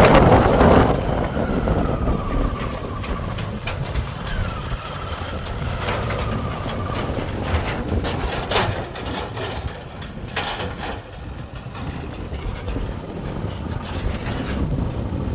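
Diesel engine of a JCB 3DX backhoe loader running as it works, with a faint wavering whine. Louder in the first second, with a few sharp knocks later.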